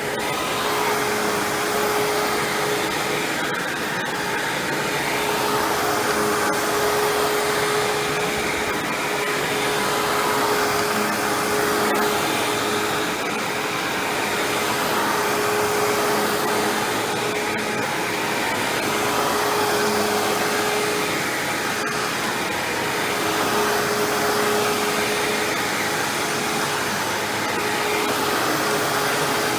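Hoover WindTunnel self-propelled bagless upright vacuum running, a steady rushing hum whose loudness swells and dips every few seconds.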